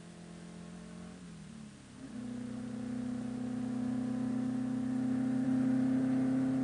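A car engine holding a steady note that grows steadily louder as it approaches, after a fainter engine note that drops in pitch about a second in.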